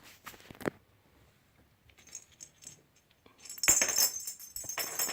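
Metallic jingling and rattling from kittens at play, such as a bell or rattle toy being batted about. There are a couple of sharp knocks in the first second; the jingling starts about three and a half seconds in and keeps going busily.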